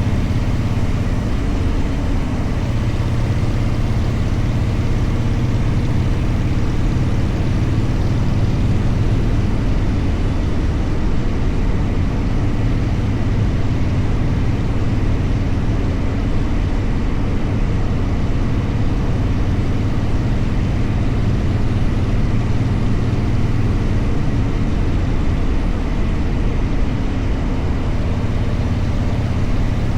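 Motorcycle being ridden at a steady pace, a steady low rumble without changes in throttle.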